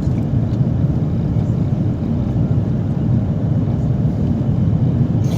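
Steady low rumble of airflow and engines inside the cabin of an Airbus A330 airliner on approach to landing.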